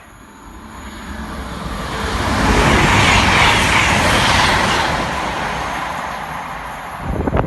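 Express passenger train passing through at speed: a rushing noise that swells, peaks in the middle and fades away. Wind buffets the microphone near the end.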